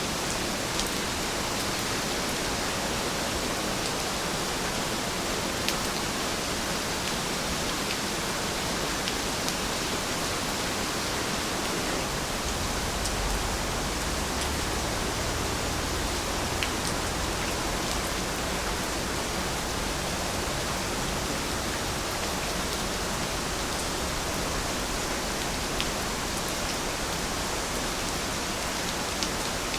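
Heavy rain falling steadily, an even hiss with scattered sharper drop ticks; a faint low rumble swells and fades about halfway through.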